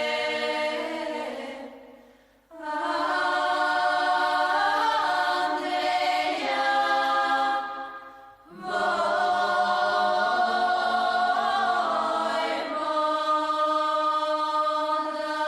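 A choir singing long, held notes in slow phrases, with short breaks about two seconds and eight seconds in.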